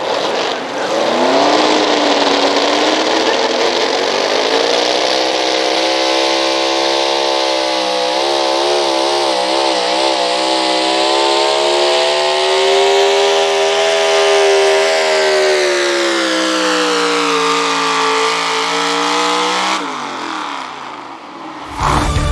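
A 4x4 pro stock gas pulling truck's engine run hard through a pull. The revs climb over the first couple of seconds, hold high with a wavering pitch around the middle, sag and then cut off near the end. Music starts just after.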